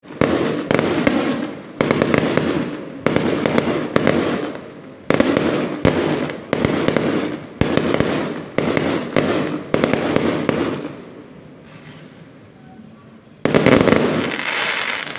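Aerial fireworks bursting overhead in quick succession, about a dozen sharp bangs each trailed by crackling that fades away. Near the end there is a lull of a couple of seconds, then another large crackling burst.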